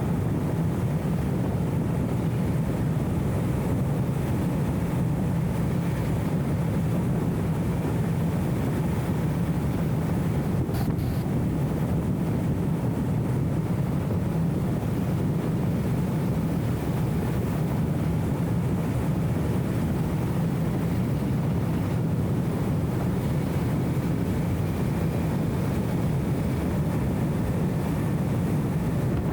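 BMW E34 M5 Touring's straight-six engine and road noise at a steady cruise: an even, muffled low drone with no change in revs, dulled by a wind-noise filter.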